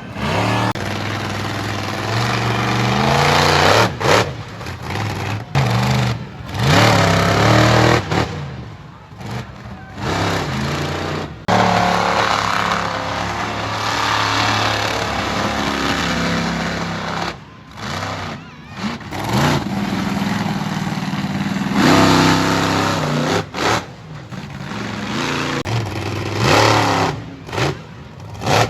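Monster truck engine revving hard, its pitch climbing and falling repeatedly over loud mechanical noise. The sound cuts off abruptly several times.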